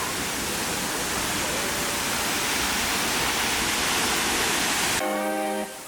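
Waterfall rushing, a loud, steady wash of water noise. About five seconds in, background guitar music takes over.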